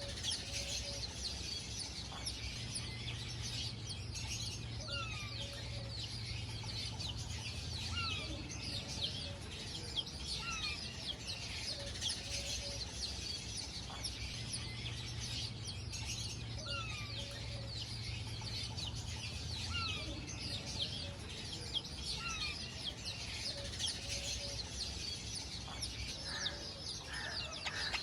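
Many birds chirping together continuously, with a short falling call repeating every second or two and a louder burst of chirping near the end.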